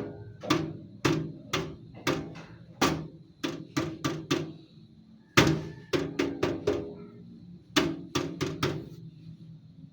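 Repeated sharp knocks and thunks in irregular bunches of two to four, over a low steady hum.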